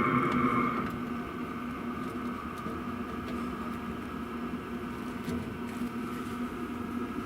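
Diesel heater running steadily, its exhaust passing through a genuine Webasto silencer and then a large generator silencer: a muffled, even hum with a steady higher whine. A louder high tone dies away about a second in.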